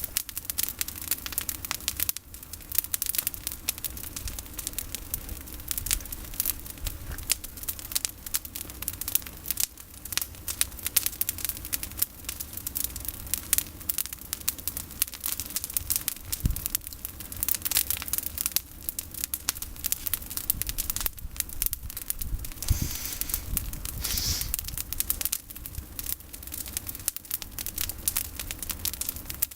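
Bonfire of pruned olive branches burning, with dense, irregular crackling throughout.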